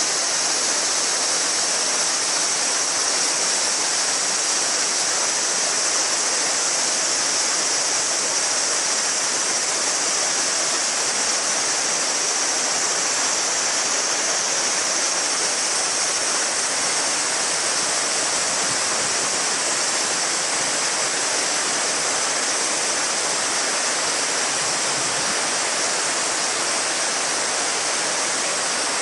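Shallow mountain river murmuring steadily over stones, with a chorus of summer cicadas buzzing as a continuous high drone above it.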